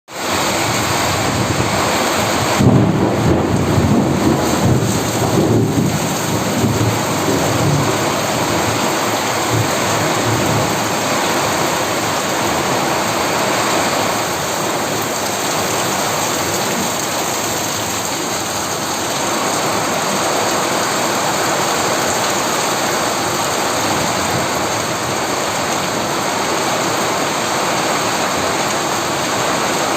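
Heavy rain falling steadily, with a roll of thunder rumbling from about three to six seconds in.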